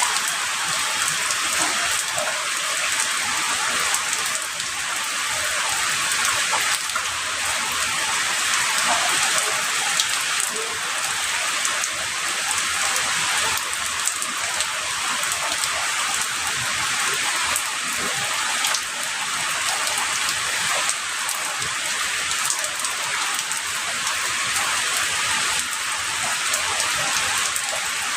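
Heavy rain falling steadily, an even hiss with scattered drops pattering on a surface.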